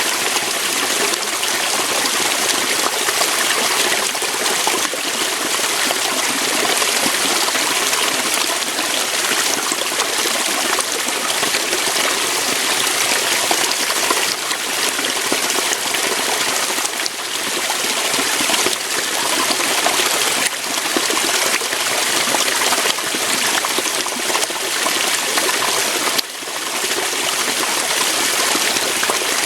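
Water of a small waterfall or stream flowing over rocks, a steady splashing rush that dips only slightly now and then.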